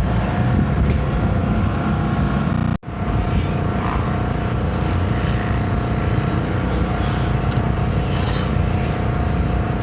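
Motorcycle engines running at a motocross track: a loud, steady mix of engine noise with held tones. It drops out sharply for an instant about three seconds in, then carries on.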